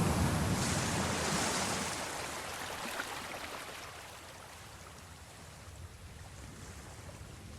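Ocean surf: the wash of one wave fades away over the first few seconds, and the next begins to build near the end.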